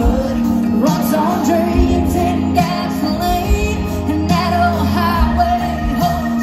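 Live country band music played loud through a concert sound system, with a wavering lead melody over a steady bass.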